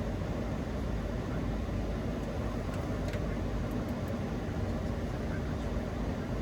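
Steady flight-deck noise of a Boeing 737-800 on approach: airflow rushing past the cockpit over the low hum of the engines, with a few faint clicks around the middle.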